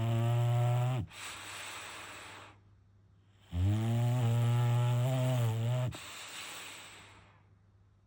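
Bulldog snoring: two long, loud, buzzing snores a few seconds apart, each followed by a softer breathy rush of air.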